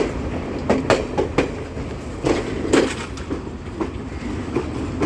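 Train moving along the tracks: a steady low rumble with irregular clacks of the wheels over rail joints, loudest about a second in and between two and three seconds in.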